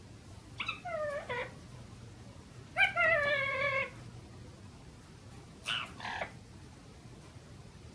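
Three meow-like animal calls. The first two fall in pitch, and the second is the longest and loudest. The third is shorter and harsher.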